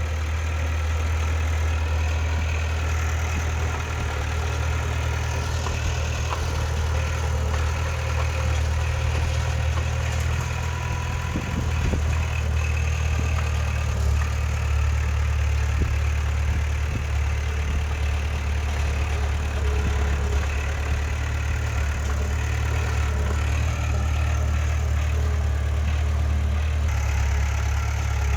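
Heavy diesel earthmoving machinery, a bulldozer or dump truck, running steadily with a deep, even engine drone.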